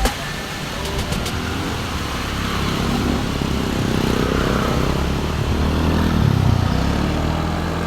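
Motor scooter engine running on the move, steady, with a slight swell in level through the middle.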